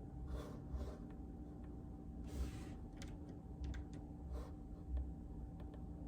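Scattered soft key presses on a mechanical keyboard with silent linear switches (Outemu Silent Peach): quiet, irregular clicks and taps with soft low thumps, and a brief rustle about two and a half seconds in, over a faint steady hum.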